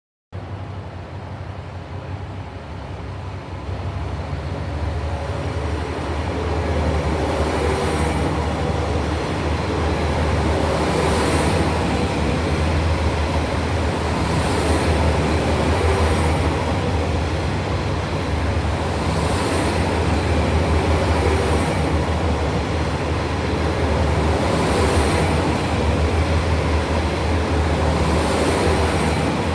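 Diesel railcar running under power, its engine a steady low hum that grows louder over the first several seconds and then holds. Short high crackles recur every few seconds.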